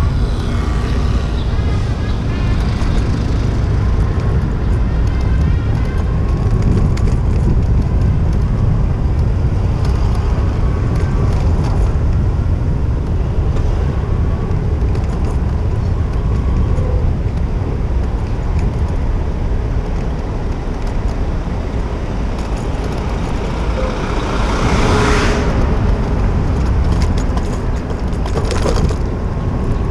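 City street traffic heard from a moving bicycle, with a steady low wind rumble on the microphone. A louder hiss swells and fades about 25 seconds in, and a few short clicks come near the end.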